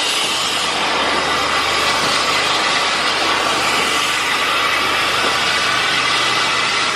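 A railway train running: a loud, steady rush of noise that cuts off suddenly at the end.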